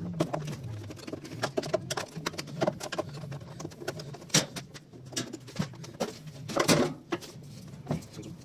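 Doves cooing steadily in the background, with scattered sharp clicks and knocks from work on the washing machine; the loudest knocks come about four and a half seconds in and just before seven seconds.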